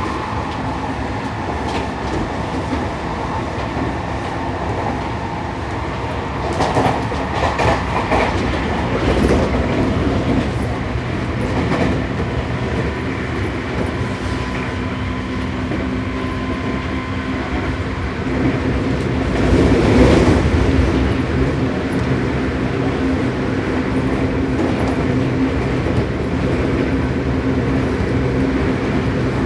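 Running sound inside a Seibu 6000-series electric train car, heard at line speed: a steady hum from the Toshiba IGBT-VVVF-driven traction motors and gears under the car, with wheels clattering over rail joints. A louder rattle comes about 7 s in and again about 20 s in.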